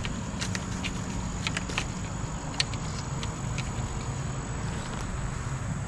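A lawnmower engine running steadily as a low, even hum, with a few light clicks over it.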